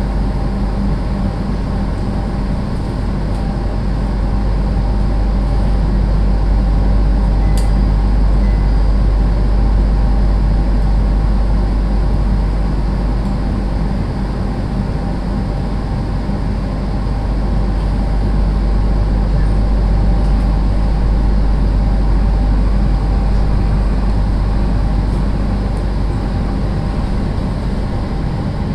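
Steady hum and rumble inside a standing JR East 701-series electric train, from its air conditioning and auxiliary equipment running while it waits to depart. One sharp click about eight seconds in.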